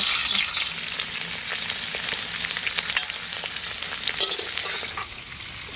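Cauliflower and potato pieces sizzling in hot oil just after going into the pan. The sizzle starts suddenly, is strongest at first and eases a little, with a few light clicks.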